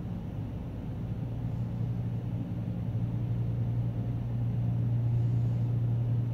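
Dodge Grand Caravan minivan engine idling with a steady low hum, growing slightly louder over the first few seconds.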